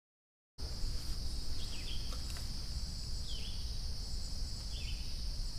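Insects droning steadily at a high pitch, starting about half a second in after a short gap, with three short falling chirps about a second and a half apart and a low outdoor rumble beneath.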